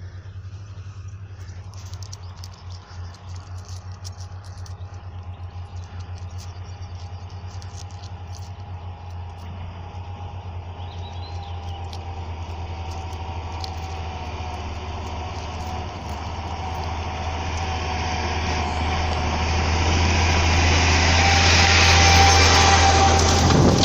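Engine of a vehicle pulling a trailer, coming closer with a steady low hum and growing steadily louder. It is loudest about 22 seconds in, as it draws near.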